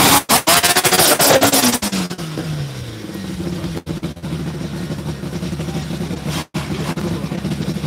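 A drag-racing car's engine at full throttle. It is loud for about two seconds, then its note falls and fades as the car pulls away down the strip, leaving a steadier, quieter engine drone.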